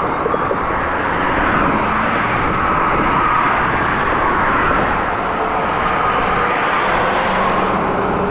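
Steady rush of vehicle and wind noise, with a faint wavering engine tone running under it.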